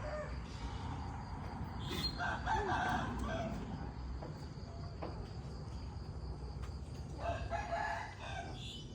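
Rooster crowing twice: two drawn-out cock-a-doodle-doo calls, each about a second long, one about two seconds in and the other about seven seconds in.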